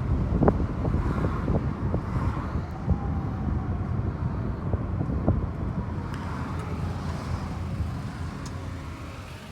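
Car on the move, heard from inside the cabin: a steady low rumble of road and engine noise with a few light knocks, easing off a little near the end.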